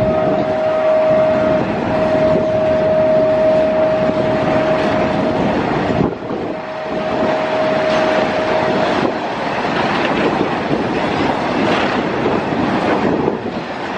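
Indian Railways freight train passing close, its wagons rumbling and clattering over the rails. The locomotive horn sounds in long steady blasts through roughly the first nine seconds, broken briefly twice, and then the wagons roll on without it.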